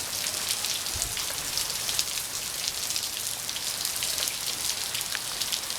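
Heavy rain pouring down and pattering on surfaces, a steady dense hiss full of small drop ticks.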